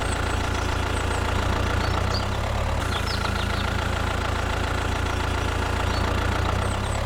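Tractor engine idling steadily, a low even rumble.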